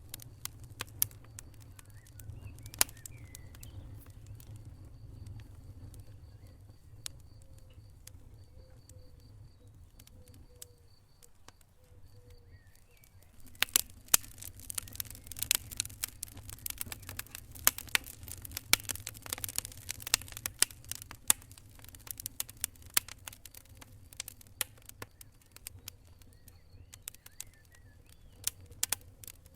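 Wood fire burning in a fireplace: a low rumble of flames with sharp crackles and pops. The crackling turns much denser and louder about halfway through, then thins again near the end.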